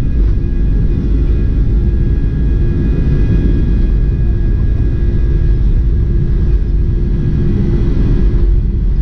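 Steady, loud low rumble of a vehicle on the move, with a constant hum running through it.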